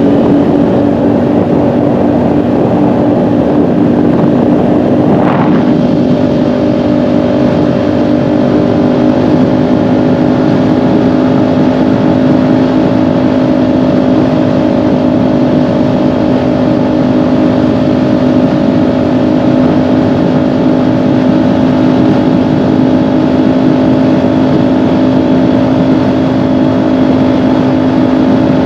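Kawasaki Ninja 400 parallel-twin engine running at a steady cruise on the road, with a brief rise in pitch about five seconds in before it settles into a constant tone.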